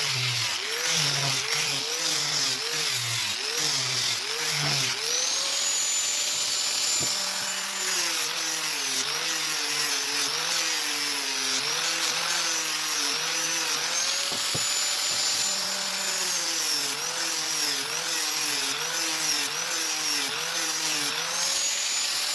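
Handheld electric power tool working a purpleheart (roxinho) board. Its motor pitch dips and recovers in a steady rhythm, about once or twice a second, as each pass loads it. Twice it runs up to a higher, steady pitch for a few seconds.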